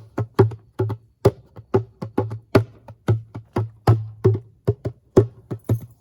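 Djembe hand-drummed in a quick rhythm of about four strokes a second, mixing deep bass tones with sharp slaps.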